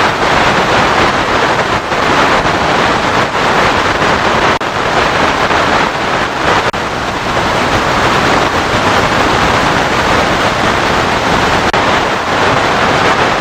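Loud, steady hiss of FM radio static from the receiver, the frequency drowned in interference noise that blocks reception of distant stations.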